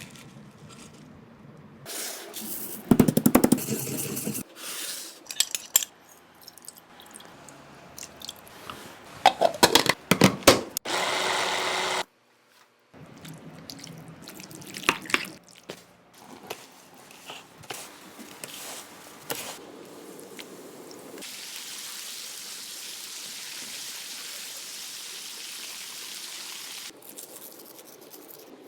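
Kitchen food-preparation sounds: scattered clinks and knocks, loud clattering bursts about three and ten seconds in, and a steady hiss lasting about six seconds near the end.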